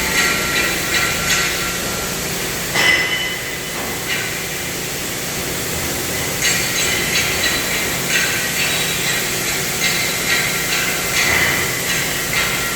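Steel being struck again and again with a hammer, clinking and briefly ringing, about two to three strikes a second. One louder hit comes about three seconds in, a few seconds' pause follows, and the strikes then resume, all over a steady hiss.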